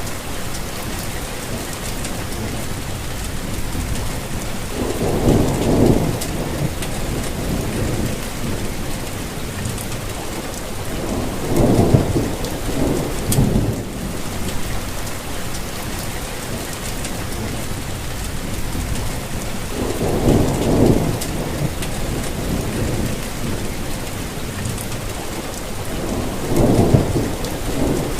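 Steady rainfall, a continuous even hiss, with four low rumbles that swell and fade a few seconds apart.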